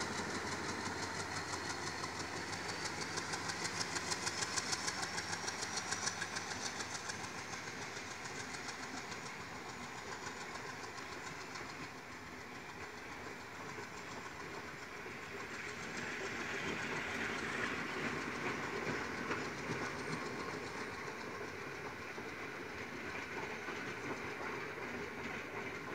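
Sri Lanka Railways M8-class diesel-electric locomotive pulling its train of carriages away, with the diesel engine running under load and a steady clickety-clack of wheels over rail joints. A high whine rises in pitch over the first several seconds.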